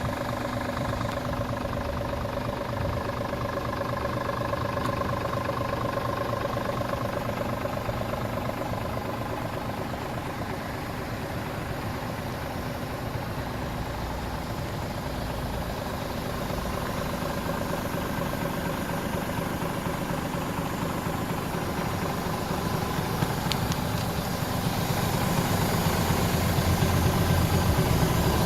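Scania R450 truck's 13-litre inline-six diesel idling steadily, its low rumble growing louder over the last few seconds.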